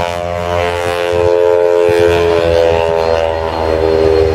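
Propeller airplane's piston engine running as it flies past, a steady drone whose pitch shifts slightly lower near the end.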